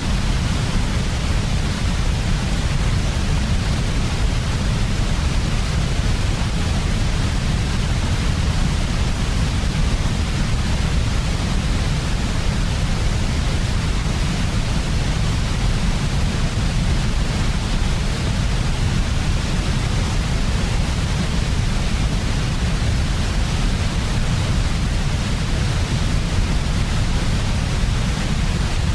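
Steady, unbroken electronic white noise with a strong low rumble and a hiss above, holding one level throughout.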